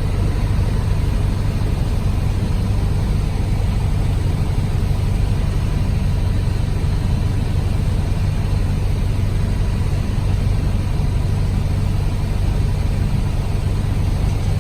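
Light aircraft's piston engine and propeller running steadily, a constant low drone heard inside the cabin.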